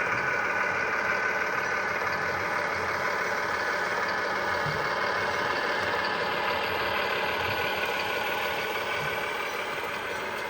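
Radio-controlled model truck running with a steady, engine-like hum and whine, easing off a little near the end.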